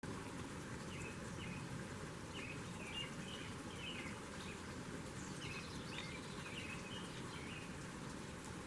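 Small birds chirping in short, quick notes, in two spells over several seconds, over a steady background hiss.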